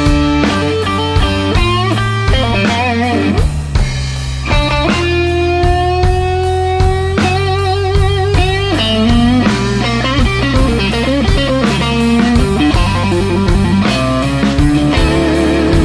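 Slow blues played by a band: an electric guitar lead with bent notes and a long held note with vibrato, over bass and drums.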